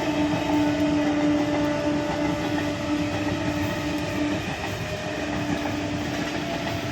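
Electric local train (EMU) passing: a steady rumble and rattle of wheels and carriages on the track, with a steady tone running under it.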